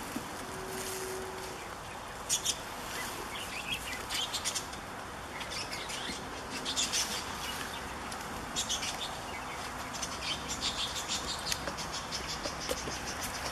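Small birds chirping in short, repeated bursts, thickest in the second half, over a steady outdoor hiss.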